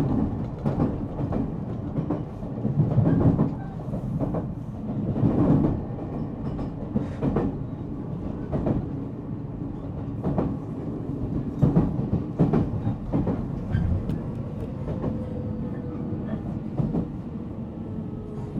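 Interior running sound of a JR Central 313 series electric multiple unit motor car: the rumble of the train rolling along, with wheels knocking irregularly over rail joints. Near the end, a faint whine slowly falls in pitch as the train slows for its stop.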